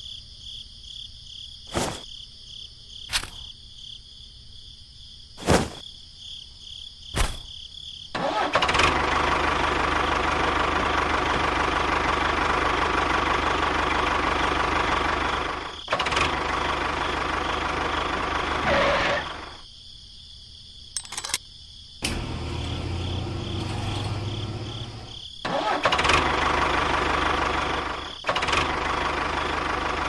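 A few sharp clicks, then a small engine or motor running in several stretches that start and stop abruptly.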